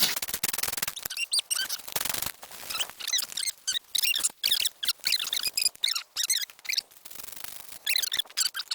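Ferro rod being struck again and again with a steel striker over birch bark tinder: a run of quick rasping scrapes, many with a high squeak.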